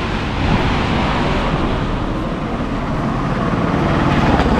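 Steady road-traffic noise: vehicles passing on the road at the bridge, an even wash of sound with a low rumble.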